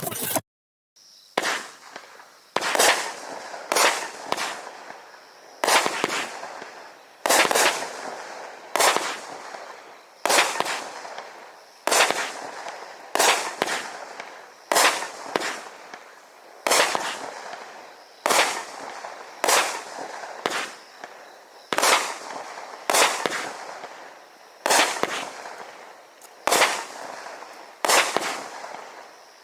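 A 200-gram multi-shot firework cake firing shot after shot, a sharp bang roughly every second and a half, some in quick pairs, each one fading out over about a second.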